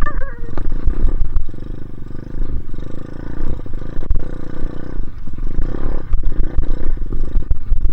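Dirt bike engine running under throttle, its sound swelling and easing off several times as the bike is ridden through deep snow.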